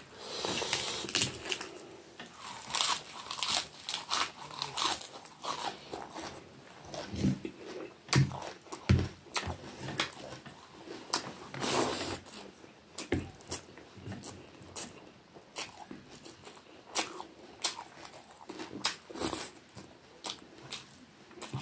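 Close-miked eating by hand: chewing and crunching with wet mouth clicks and smacks, and fingers mixing rice against a plate, as an irregular string of short crunches and clicks.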